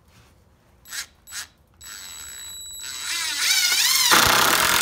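DeWalt DCF885 cordless impact driver driving a 2.5-inch deck screw into a pallet-wood 2x4. The motor whines from about halfway in, its pitch wavering as the trigger is worked. About four seconds in the impact hammering kicks in loudly as the screw bites and seats.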